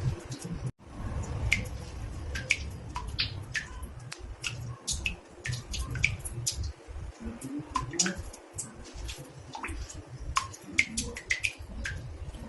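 Water drops falling irregularly into a bathtub, a few bright plinks a second over a low rumble. The sound cuts out for an instant about a second in.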